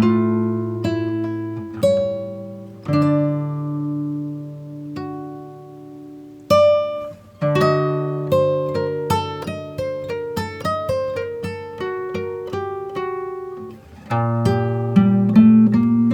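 Background music: acoustic guitar playing plucked notes and chords that ring and fade, moving into a quicker run of single notes about halfway through.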